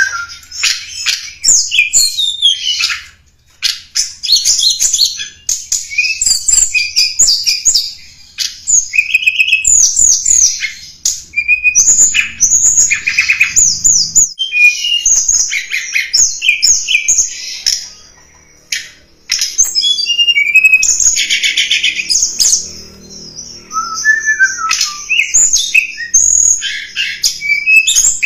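Tledekan gunung bird call played as a lure recording: a long run of rapid high chirps and quick slurred twitters, broken by a few buzzy rattling notes and short pauses.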